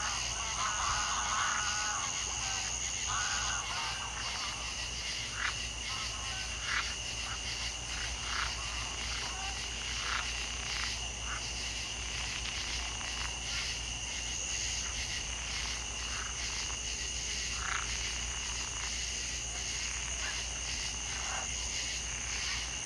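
Frogs calling, short separate croaks every second or so, over a steady high insect trill. A second, higher insect tone drops out a few seconds in and comes back near the end.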